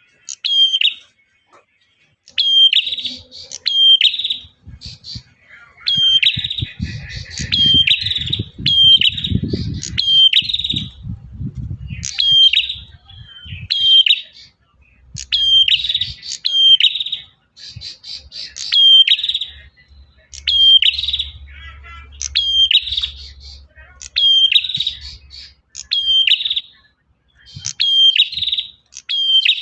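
Male prenjak songbird singing loud, sharp phrases of quick downward-sweeping notes, repeated every second or two without pause: the male's call to a female. A low rumble sits beneath the song twice.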